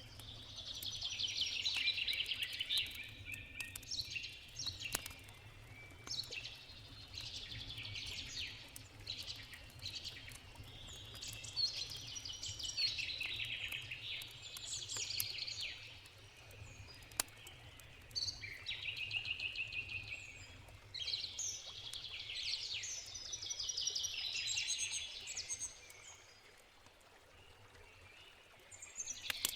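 Songbirds singing in a string of phrases, each a rapid run of repeated high notes lasting a few seconds, over the steady low rush of a river, with the occasional sharp crackle of a campfire. The song pauses briefly near the end.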